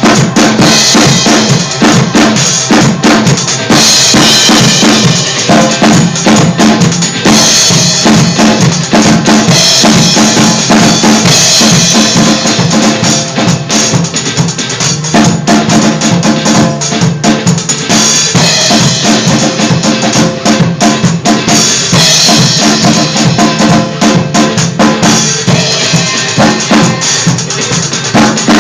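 Drum kit played loud and fast: a dense beat of bass drum and snare, with cymbal crashes every few seconds, over a recorded song.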